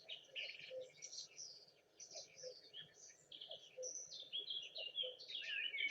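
Faint chorus of small songbirds chirping and twittering, many short quick notes overlapping, getting busier and louder in the last couple of seconds. A faint low note repeats about twice a second underneath.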